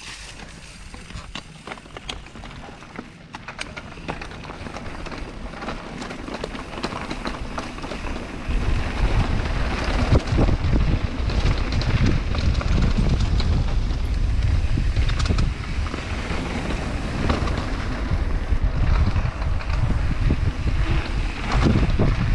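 Wind rushing over the microphone of a mountain bike rider on a dirt trail, with scattered clicks and rattles at first; the wind noise jumps much louder about eight seconds in as the bike picks up speed.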